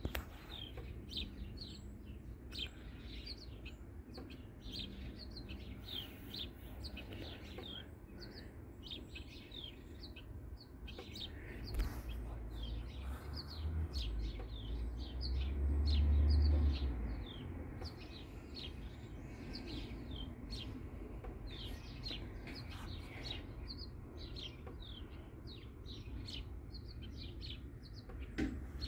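Small birds chirping, a long run of short high falling chirps, several a second, over a low rumble that swells loudest about halfway through.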